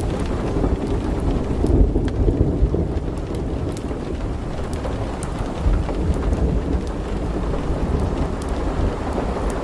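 Steady low rumbling noise with a hiss on top and scattered faint ticks, swelling briefly about two seconds in; no peacock call is heard.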